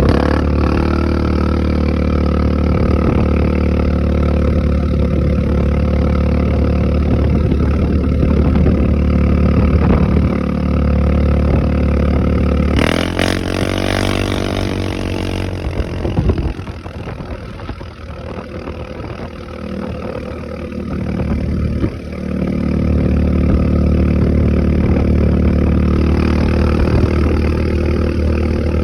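Alpha small motorcycle engine running steadily, revved up and down about halfway through, then quieter for a few seconds before settling back to its steady run.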